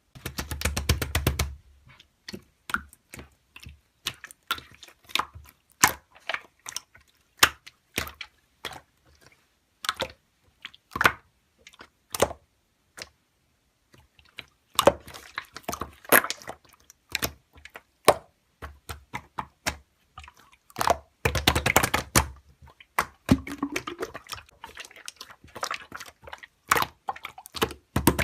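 Hands squeezing, pressing and stretching slime, making a run of irregular wet, sticky clicks and pops. Quick rapid-fire crackling comes at the start and again about three quarters of the way through.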